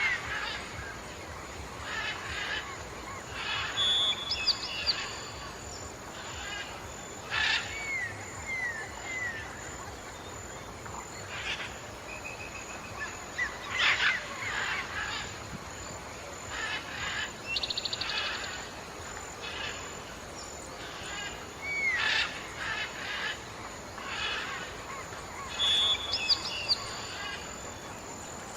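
Several birds calling outdoors: scattered short chirps, repeated small down-slurred whistles and a few brief rapid trills, over steady background hiss.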